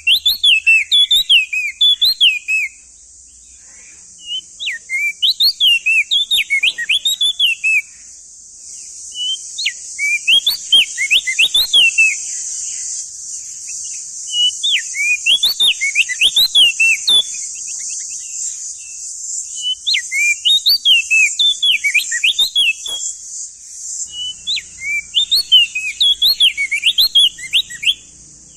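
Male opior jambul singing: six loud phrases of fast, sweeping whistled notes, each two to three seconds long with short pauses between. A steady high hiss runs underneath.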